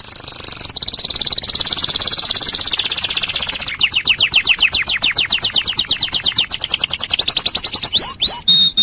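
Domestic canary singing: a loud, very fast, high rolling trill that changes about four seconds in to a slower run of quick downward-sweeping notes, ending in a few slow swoops and a held whistle.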